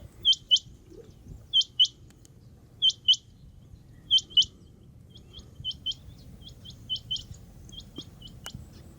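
Rain quail calling: a sharp, high double note repeated about every second and a half, four loud pairs in the first half, then fainter pairs that come quicker.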